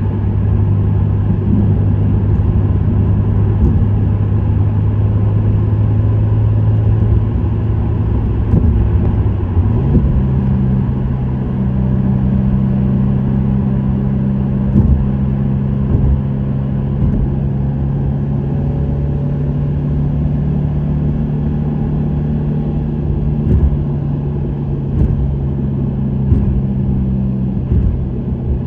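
Subaru WRX STI (VAB) turbocharged 2.0-litre flat-four running at a steady cruise through an STI Performance muffler, with tyre and road noise. About ten seconds in, the engine note steps up in pitch and then holds steady again.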